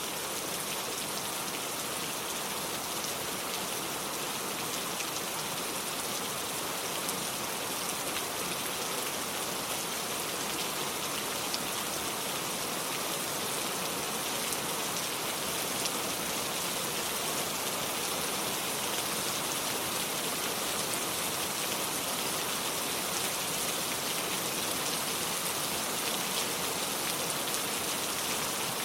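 Steady rain falling: an even hiss with fine patter of drops on a hard surface, unchanging throughout.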